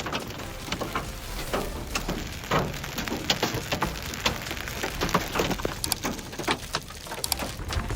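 Large hailstones falling and striking hard surfaces: many irregular sharp hits over a steady patter.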